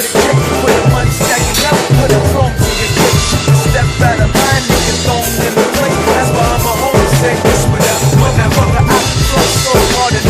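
Drum kit played along with a recorded hip-hop track, sharp drum strokes over the song's heavy bass line and melody.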